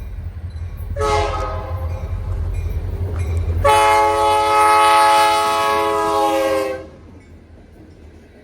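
Locomotive air horn sounding two blasts, the second louder and about three seconds long, over a low rumble that stops as the second blast begins.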